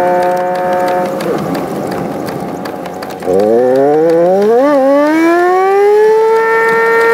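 A Toyota's engine and road drone in sped-up timelapse audio, turned into a high, whining hum. The pitch fades and drops about a second in as the car slows, then climbs steadily from about three seconds in as it pulls away, wavers once and levels off high.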